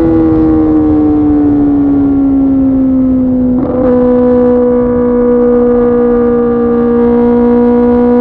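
2024 Kawasaki ZX-10R's inline-four running through an SC-Project CRT exhaust, engine speed easing down steadily off the throttle. About three and a half seconds in there is a short break in the note, a gear change, after which the engine speed holds nearly steady.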